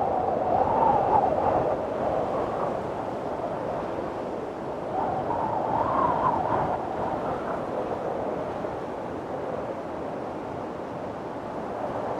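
Windstorm: strong wind blowing in gusts, with a wavering pitch that rises and falls. It swells about a second in and again around the middle, then eases.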